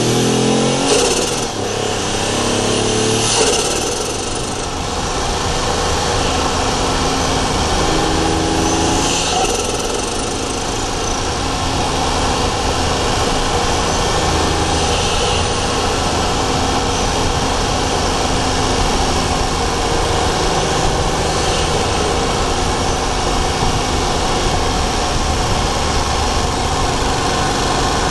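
Daihatsu Charade GTti's turbocharged 1.0-litre three-cylinder engine heard from the engine bay, pulling up through the revs twice early on with brief high falling whooshes from the turbo as the throttle lifts. It then runs at a steady speed.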